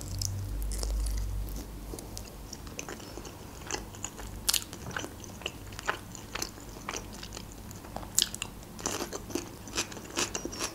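Close-miked eating of grill-roasted chicken: chewing with a steady run of small sharp mouth clicks and crunches. A low rumble sits under the first second and a half.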